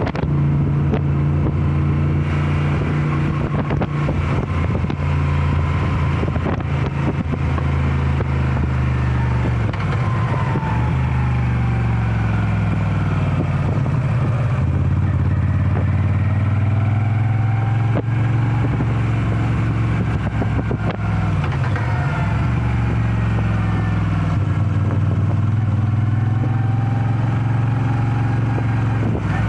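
Moto Guzzi V7 Special's air-cooled transverse V-twin running steadily under way. Its note dips in pitch and climbs back twice, about a third and two-thirds of the way through, as the revs fall and rise.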